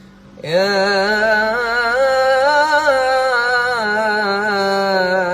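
Chanted Quran recitation (tarteel): a man's voice sings the word 'yā' as one long, ornamented note, the pitch wavering and turning as it is held. The voice comes in about half a second in, after a short quiet.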